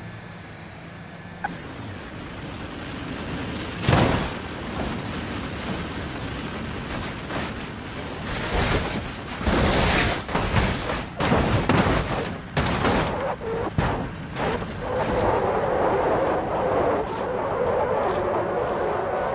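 A series of sharp bangs at irregular intervals: one loud bang about four seconds in, then a cluster of bangs from about nine to thirteen seconds. Near the end comes a steady pitched sound that rises slowly.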